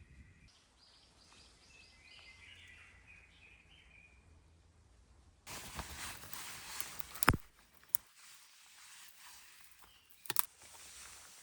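A bird gives a quick run of chirps over quiet woodland. About halfway through, rustling in dry leaves and twigs starts abruptly, broken by three sharp cracks of dry wood snapping, the loudest a little after it begins.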